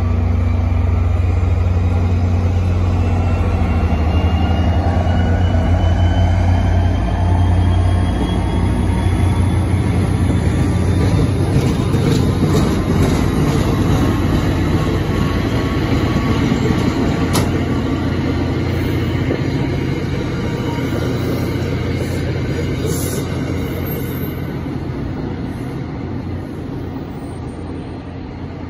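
NJ Transit diesel commuter train passing close by: a low, steady diesel engine note at first, then wheels rolling on the rails with a slowly rising whine as it gathers speed, with one sharp click about halfway. The sound fades as the last car moves away.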